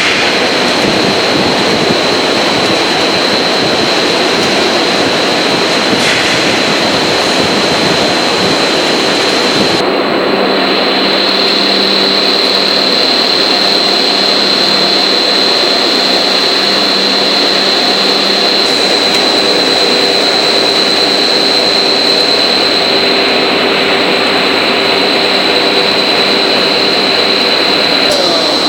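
Plastic corrugated pipe extrusion line running: a loud, steady machine noise with a steady high-pitched whine over it. About ten seconds in the sound shifts slightly, with a low hum joining for several seconds.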